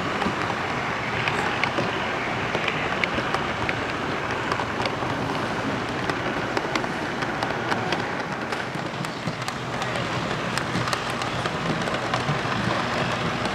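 Steady murmur of a busy model-train show hall, with many light clicks scattered through it.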